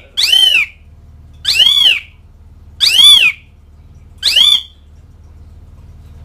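Asian pied starling giving four loud, arched mewing calls, each rising then falling and about a second apart, then falling silent near the end. A low steady hum sits underneath.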